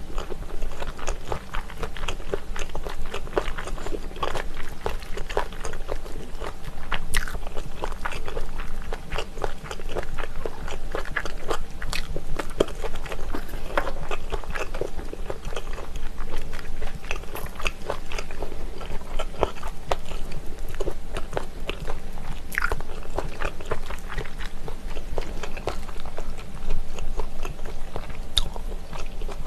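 Close-miked eating sounds: steady chewing with frequent small crunches and clicks. The food is spicy pressed chicken-feet slices (dakbal pyeonyuk) wrapped in cabbage leaves with kimchi.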